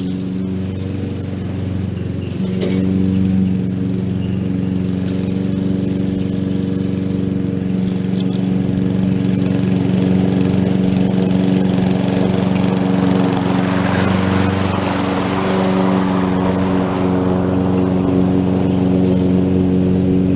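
Petrol lawn mower engine running steadily while mowing grass. A rush of hiss swells for several seconds about halfway through and then eases.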